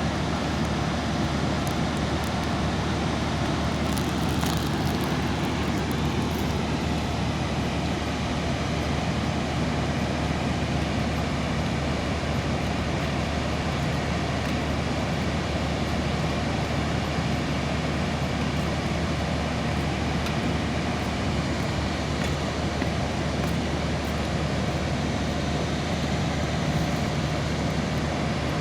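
Floodwater pouring over a waterfall: a steady, unbroken rushing noise.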